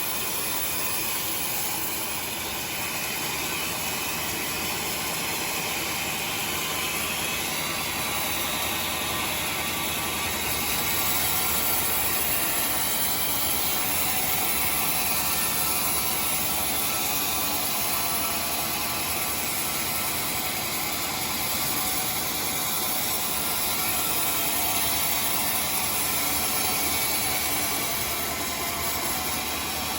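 Sawmill saw running steadily through timber, a continuous high-pitched hiss of blade cutting wood that swells slightly partway through.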